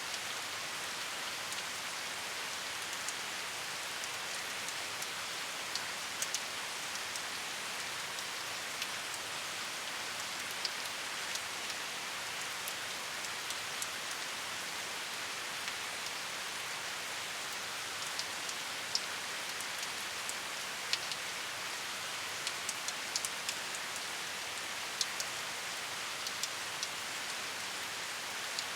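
Steady rain falling, an even hiss with scattered sharper drips of individual drops landing close by.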